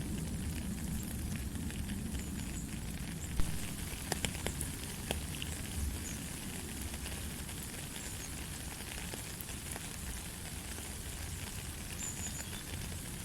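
Steady light rain falling, with scattered single drops tapping close by, the sharpest about three and a half seconds in and a few more just after.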